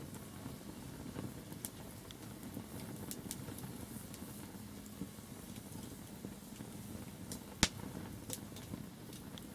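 Wood fire crackling: scattered sharp pops of burning wood over a low steady rumble, with one loud snap about three-quarters of the way through.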